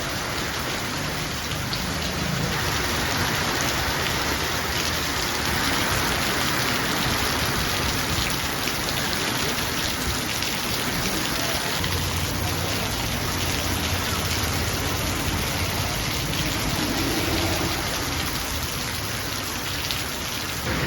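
Heavy rain falling, a dense and steady hiss.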